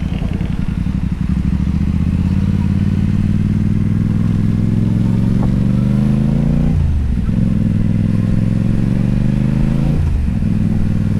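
Motorcycle engine pulling away and accelerating, its pitch rising steadily, then dropping sharply as it shifts up a gear about seven seconds in and again about ten seconds in, before running on steadily.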